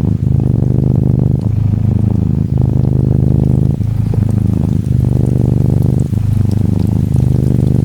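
Norwegian Forest Cat kitten purring close up, a steady low rattle that breaks briefly between breaths a little over a second apart. Gentle rain patters faintly behind it.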